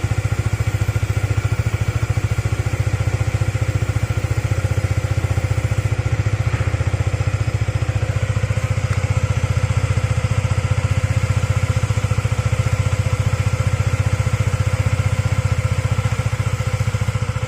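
Honda RS150R's single-cylinder four-stroke engine running steadily at idle in first gear, driving the chain and spinning the rear wheel.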